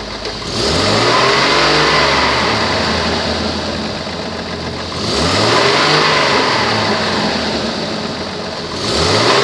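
2002 Chevrolet Trailblazer's 4.2-litre inline-six revved twice from idle, each rev rising and falling back over a few seconds, with a third rev starting near the end. The engine has an exhaust leak.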